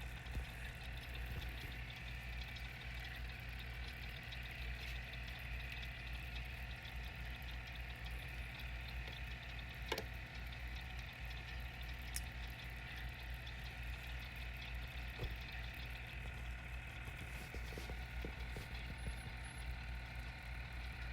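Steady low mechanical hum with a faint watery trickle over it, and a single sharp click about halfway through.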